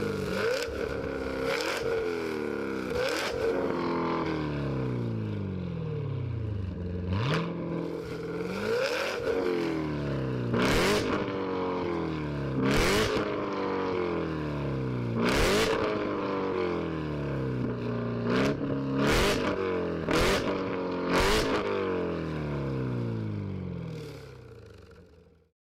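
Car engine revved again and again through a loud exhaust, each rev falling away in pitch, with sharp pops and bangs from the exhaust as the revs drop. The sound fades out just before the end.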